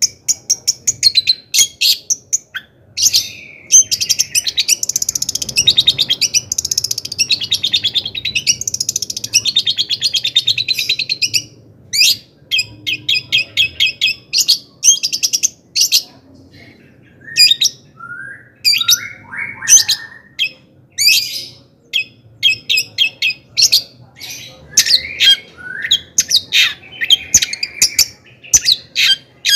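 Long-tailed shrike (cendet) singing a fast, excited song of sharp, repeated chattering notes and rapid trills. The song breaks off briefly about halfway through, then returns with a few lower, rising notes before more chattering.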